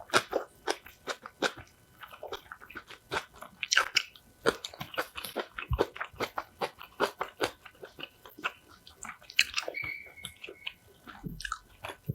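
A person biting into and chewing crunchy kimchi, with a run of sharp crunches several times a second.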